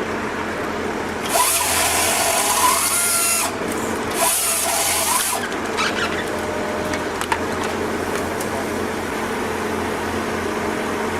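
Tree-cutting power machinery running with a steady hum, broken twice by bursts of harsh, high-pitched cutting noise. The first burst starts about a second in and lasts about two seconds; the second starts about four seconds in and is shorter.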